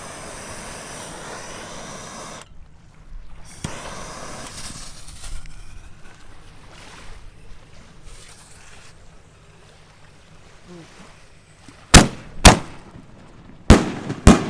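Four sharp, very loud bangs from 4-inch canister firework shells, in two close pairs near the end. A softer hissing noise comes before them.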